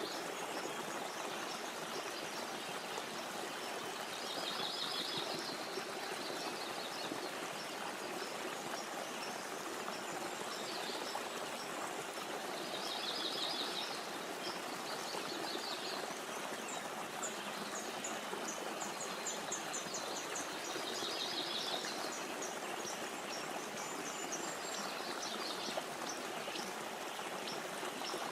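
Steady rushing of a flowing stream, with a songbird singing a short trilled phrase about every eight seconds and higher chirps in between.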